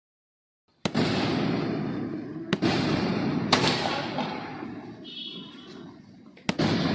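Fireworks going off: a sudden loud bang about a second in, followed by a crackling rumble that slowly fades. Three more sharp bangs come through it. The sound cuts off abruptly near the end.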